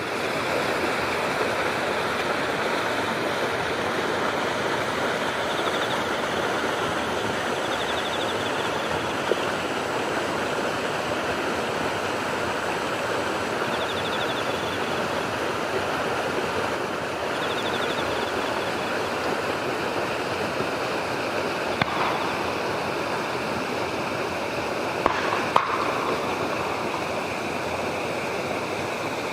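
Steady rush of running water, with faint short high trills a few times and a couple of soft clicks near the end.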